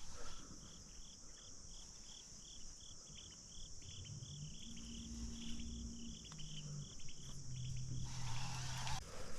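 Crickets chirping steadily, about three chirps a second, over a constant high-pitched insect drone. A faint low hum comes in during the second half, and a brief rush of noise follows near the end.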